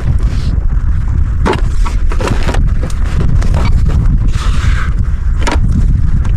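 Wind buffeting the microphone as a steady low rumble, with a few scattered clicks and knocks.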